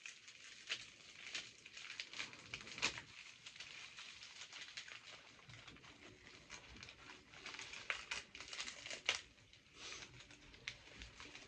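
Food packaging crinkling and rustling as it is handled, in irregular crackles with a few louder ones.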